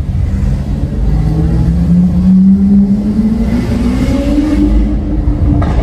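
Lamborghini Aventador SV Roadster's V12, fitted with a Capristo exhaust, accelerating hard: the engine note climbs steadily in pitch for about four seconds, then breaks off abruptly near the end, over a low rumble.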